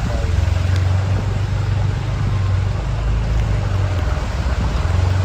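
A vehicle engine running steadily with a low hum, under a steady hiss of wind and rain noise.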